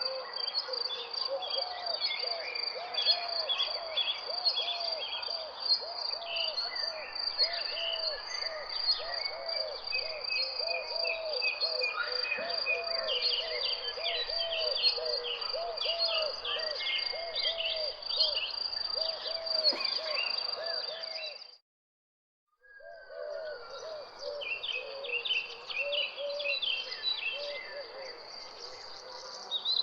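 Birds chirping and calling over a steady high-pitched insect trill, with a low call repeating about twice a second. The sound cuts out completely for about a second roughly two-thirds of the way through, then resumes.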